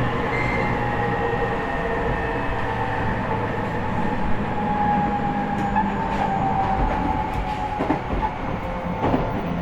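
Running sound inside an E501 series electric train's motor car: steady wheel and rail rumble, with the faint whine of the Toshiba IGBT inverter and traction motors drifting slightly lower in pitch. A few clicks from the wheels over rail joints come through in the second half.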